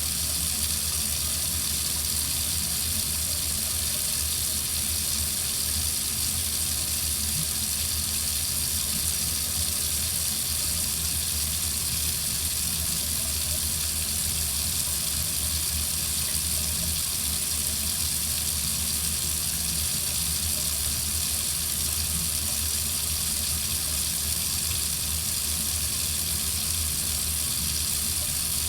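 Water faucet left running, a steady even hiss of flowing water with a low rumble beneath, unchanging throughout.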